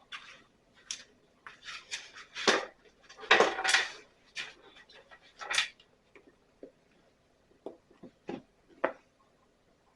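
Small screwdriver prying at the plastic vent of a Stihl BR 600 backpack blower's fuel tank: irregular clicks and scrapes of metal on plastic, the loudest a scraping rush about three and a half seconds in.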